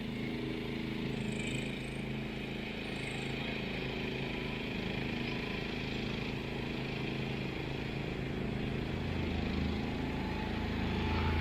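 Engine of a homemade zero-turn ride-on lawn mower running steadily; about nine seconds in a deeper note comes in and it gets a little louder.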